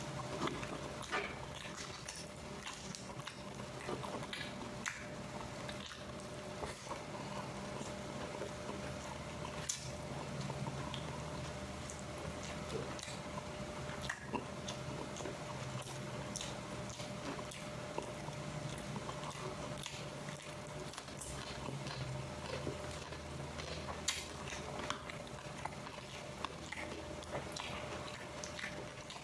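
A person chewing food close to the microphone, with frequent small clicks and mouth sounds throughout, over a steady low hum.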